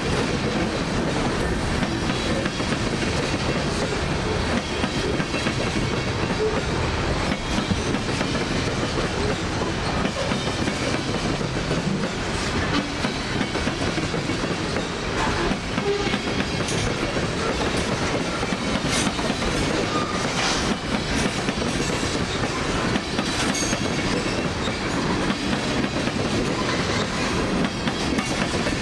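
Freight cars of a manifest train rolling past, with a steady rumble and wheels clacking over rail joints. A few brief high squeals come through about two-thirds of the way in.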